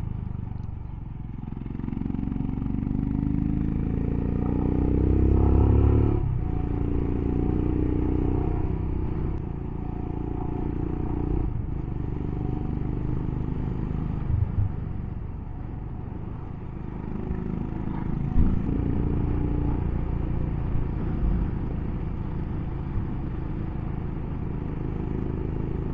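Motorcycle engine running under way, its pitch climbing as it accelerates for the first six seconds, then dropping sharply at a gear change. It then runs at a more even pitch with a few more rises and falls, over steady road and wind noise.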